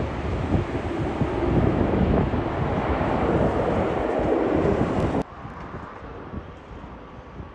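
Strong gusty wind buffeting the microphone in a loud, unsteady rumble, which cuts off abruptly about five seconds in to a much quieter wind hiss.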